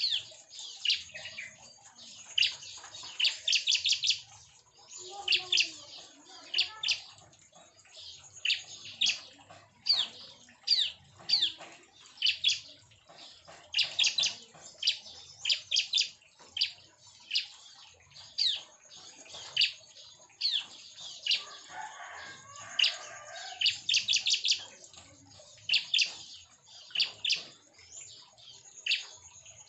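Bar-winged prinias (ciblek) calling over and over: sharp high chirps and quick rattling runs of repeated notes, one after another.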